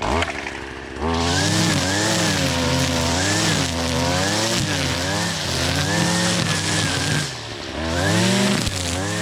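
Gas string trimmer (weed eater) with twisted commercial trimmer line running at high throttle, its engine pitch wavering up and down as it cuts through tall grass and weeds. It idles low for about the first second before revving up, and eases off briefly about seven seconds in before revving again.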